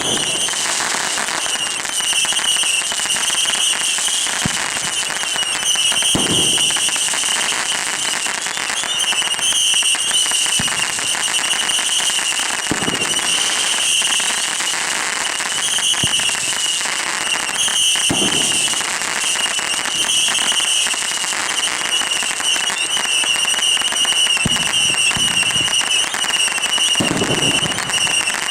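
Fireworks going off: a continuous dense crackle with a few low thumps, over a steady shrill tone in the background.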